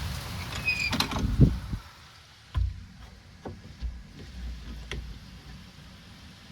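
A door being shut against the rain: a short squeak, then a clunk about a second and a half in, after which the rain hiss is cut off. A few lighter knocks follow.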